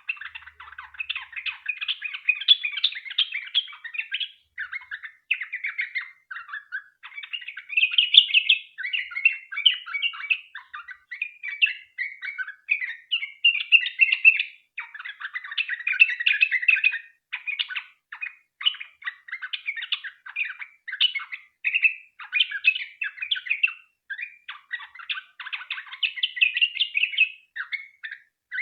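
Yellow-vented bulbul (trucukan) singing on and on in long, fast runs of chirping notes, broken by only brief pauses.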